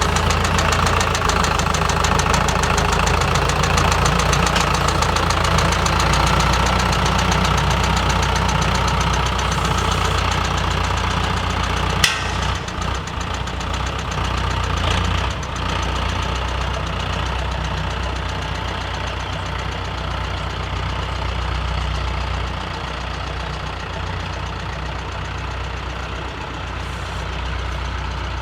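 Diesel engine of a 65 hp four-wheel-drive tractor running steadily while working with a wheat planter, with one sharp click about twelve seconds in.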